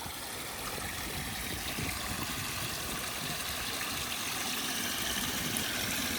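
Water running over a pondless waterfall: a steady rush of falling water that slowly gets a little louder.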